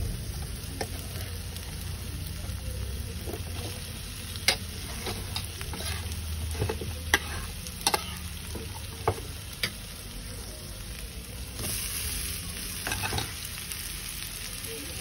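Crumbled boiled potatoes being added to an aluminium kadai of onion-tomato masala frying in oil, with a steady sizzle and stirring. Several sharp knocks of a spoon against the pan come through the middle, and the sizzle grows louder for a moment near the end.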